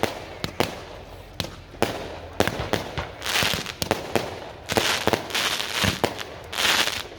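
Fireworks going off: many sharp bangs one after another, with spells of hissing crackle in the second half.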